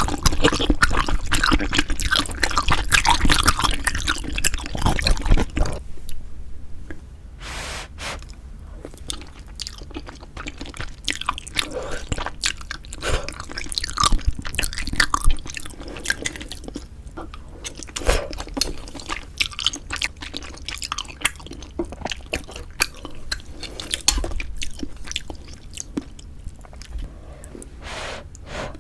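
Close-miked eating sounds of pork-bone hangover soup with glass noodles: wet chewing and squishy mouth sounds with small clicks. The first six seconds or so are louder and denser, then the chewing goes on more quietly and irregularly.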